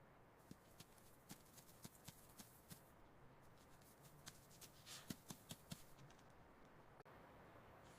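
Faint, irregular clicks and small scratchy rustles, in loose clusters from about half a second in and again around five seconds in.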